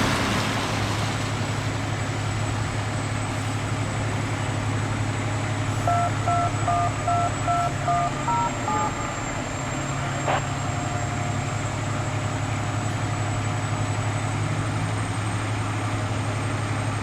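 A vehicle engine running steadily with a low hum. About six seconds in, a short run of electronic beeps alternates between two pitches and ends in a brief falling figure, and a single click follows a second or so later.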